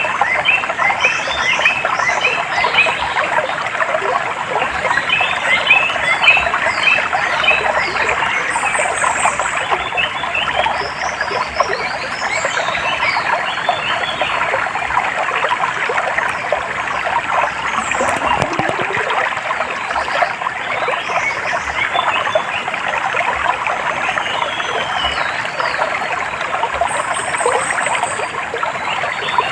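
Water running in a stream, with many birds chirping and calling over it throughout.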